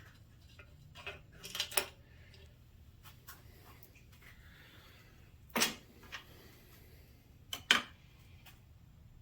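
Scattered clicks and knocks of tools and engine parts being handled, with a cluster after about a second and two louder knocks past halfway and near the end, over a faint steady low hum.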